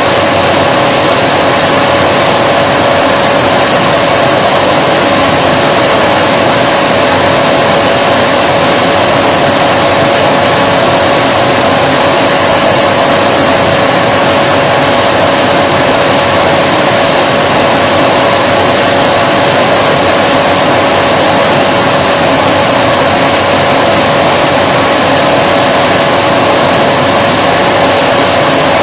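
Vacuum cleaner running steadily: a constant loud whirring rush with a steady motor hum.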